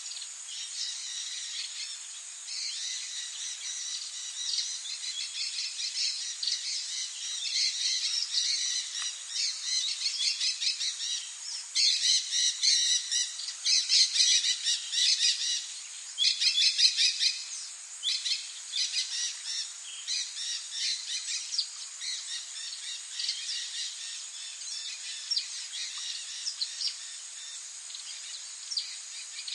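Several birds chirping and singing in quick runs of short, high repeated notes, loudest and busiest about halfway through. Underneath is a steady high-pitched hiss.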